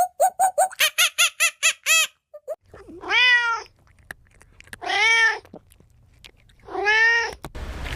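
Peafowl calling: a quick run of short calls, about six a second, for the first two seconds. Then three loud, drawn-out calls about two seconds apart, each rising and then falling in pitch.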